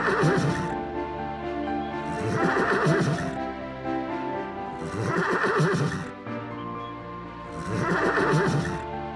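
A horse-like whinnying call, repeated four times about every two and a half seconds, over steady background music.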